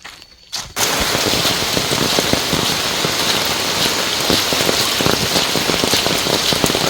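Heavy rain pouring down, a dense steady hiss that starts abruptly under a second in.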